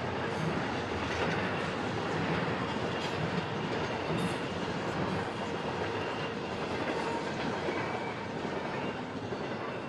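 Freight train cars rolling past at steady speed: a continuous rumble with the clatter of steel wheels on the rails, and faint high wheel squeal now and then.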